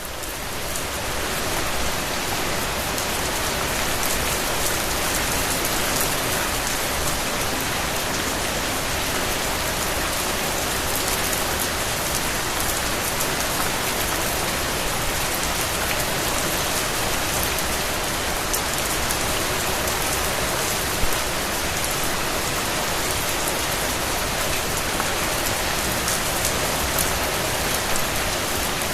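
Steady rain falling, fading up over the first couple of seconds, with scattered sharper drop hits in the even hiss.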